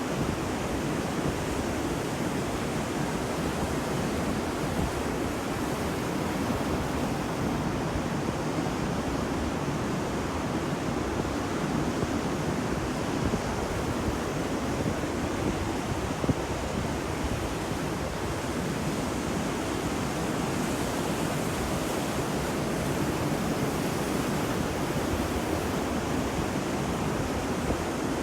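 Ocean surf washing onto a beach: a steady rush of breaking waves, swelling slightly about two-thirds of the way through.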